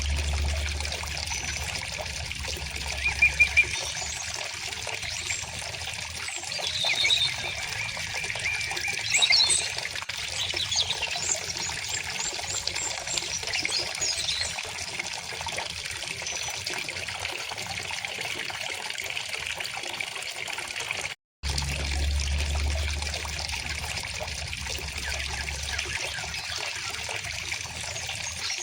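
River water flowing and trickling steadily, with birds chirping now and then, loudest a few seconds in and again near ten seconds. The sound cuts out completely for a moment about two-thirds of the way through, then carries on with a low rumble under the water.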